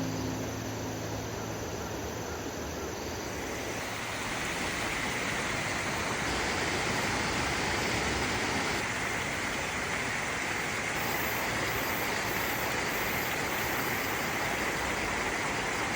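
River water rushing over the rocks of a gorge: a steady, even noise that grows louder about four seconds in.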